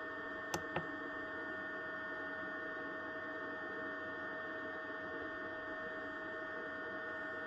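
Steady electrical hum with a few fixed whining tones, and two light clicks just under a second in.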